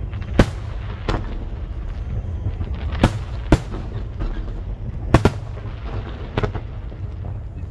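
Aerial fireworks bursting: about seven sharp bangs at irregular intervals, two of them in quick succession about five seconds in, over a continuous low rumble.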